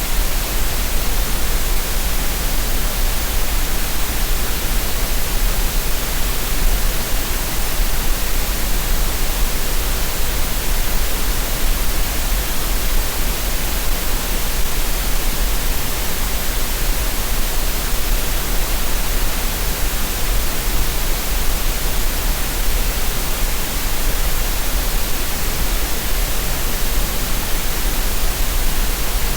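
Synthetic green noise: a steady, unchanging hiss spread evenly from low to high pitch, with a deep rumble at the bottom.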